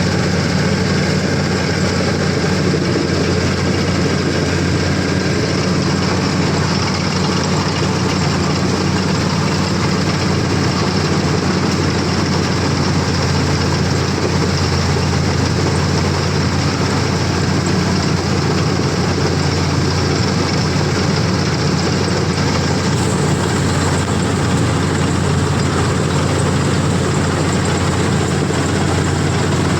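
CLAAS combine harvester running steadily, with a constant engine drone and the clatter of the machine working.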